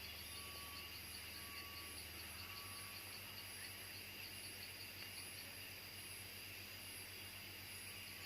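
Insects chirring steadily, a high, evenly pulsing trill over a faint steady hiss.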